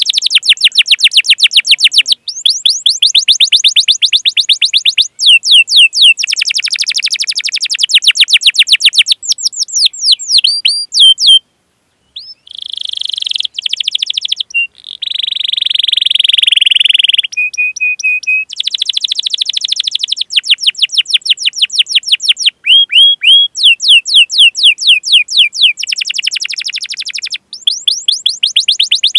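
Domestic canary singing a long rolling song: fast trills of rapidly repeated sweeping notes, a harsher buzzing stretch about halfway through, a few slower steady-pitched phrases, then more fast trills.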